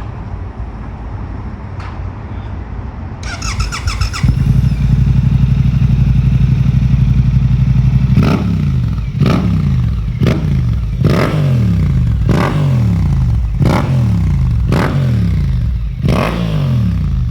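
Suzuki GSX-8R's parallel-twin engine through an Akrapovic full exhaust system. It idles, gives a brief rattle about three seconds in, then holds a raised steady rpm for about four seconds. After that it is revved in sharp blips about once a second, each falling back in pitch.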